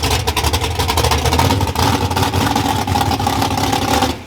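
A loud car engine revving hard and held at high revs, easing off near the end.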